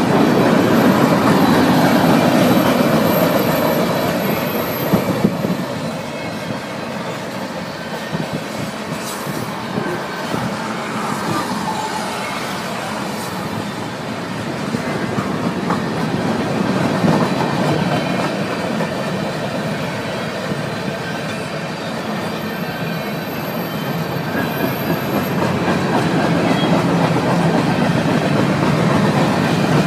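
Freight cars of a BNSF mixed freight train rolling past close by, a steady rumble with the clickety-clack of wheels over the rail joints. It is louder at the start and again near the end.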